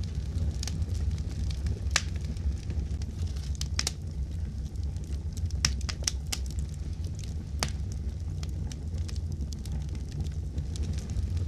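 Fireplace fire crackling: a steady low rumble of burning with scattered sharp pops and snaps, a quick run of them a little past the middle.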